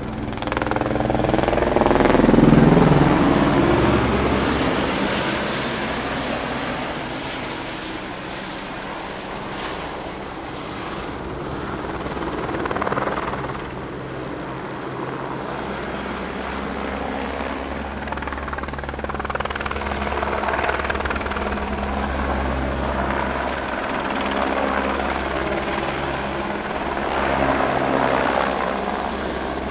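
An aircraft running steadily, loudest about two to three seconds in as it passes close, then going on with slow swells in level.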